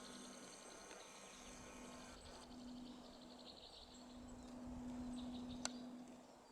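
Faint forest ambience: a flying insect buzzes on and off with a steady low drone, growing louder past the middle, while small birds twitter high above it. A single sharp click comes near the end.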